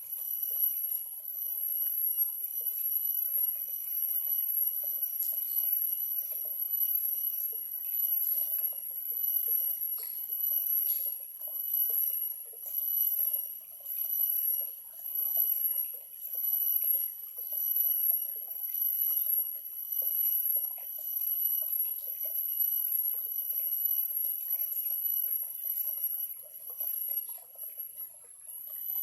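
Small stream trickling and burbling, under a high, shrill trill that swells and fades about once a second.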